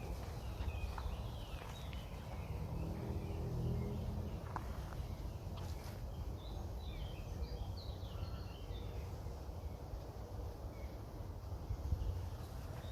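Wind rumbling low on the microphone, with small birds chirping, most in a flurry of short high chirps midway. A faint low drone is heard briefly in the first few seconds.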